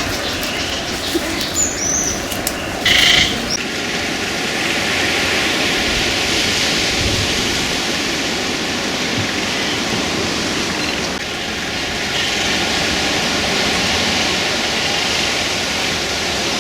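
Steady rushing noise with gusty rumble underneath, and a few short high bird calls about two and three seconds in.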